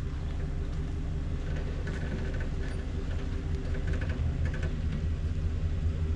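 Pickup truck engine running steadily with a low hum, as the truck carrying the camper drives or manoeuvres.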